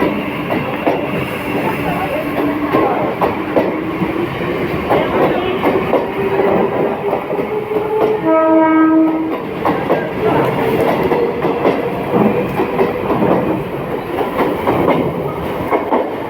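Mumbai suburban electric local train running, its wheels clattering over rail joints under a whine that rises slowly in pitch as it gathers speed. A horn blast of about a second sounds a little past the middle.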